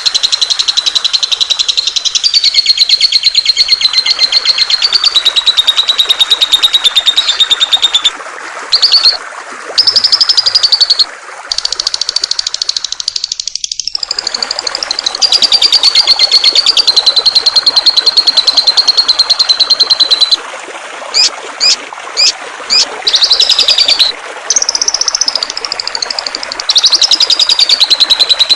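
Songbird singing long, very fast rattling trills at a fairly steady high pitch, broken by short pauses, with a burst of quick separate chirps about two-thirds of the way through. Flowing water rushes steadily underneath.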